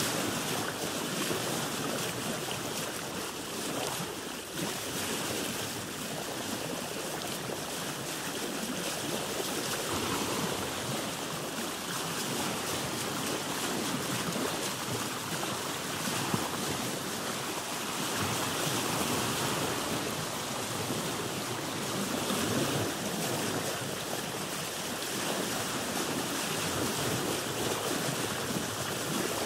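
Ocean waves washing around a boat: a steady wash of water that swells and eases gently.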